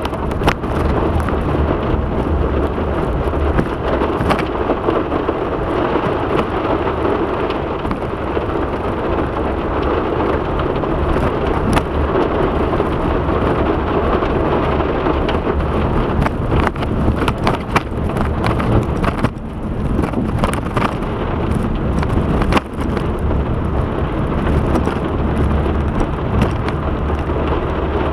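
Heavy rain falling steadily, with many sharp taps of drops striking close by.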